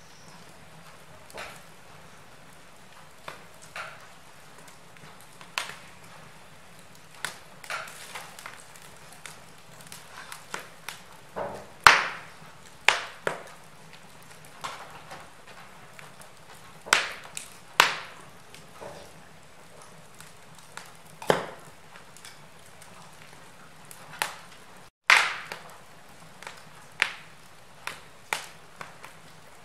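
Wood fire burning in a fireplace: irregular crackles, snaps and pops of the burning logs over a low steady hiss, some coming singly and some in quick clusters. The sound cuts out for an instant just before a loud pop near the end.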